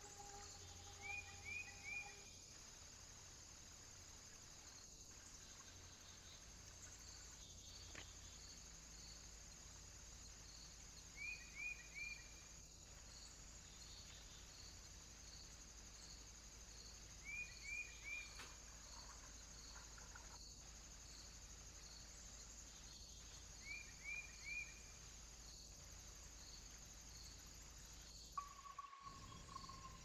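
Faint outdoor background: a steady high hiss with a faint, evenly repeating pulse, like crickets. Over it a small bird gives a quick three-note chirp four times, about six seconds apart, and a longer, slightly falling whistle comes near the end.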